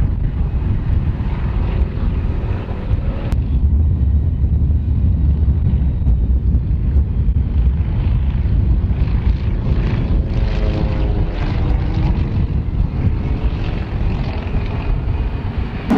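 Propeller-driven aircraft flying at an air show, a steady low engine drone whose pitch shifts slightly about ten seconds in.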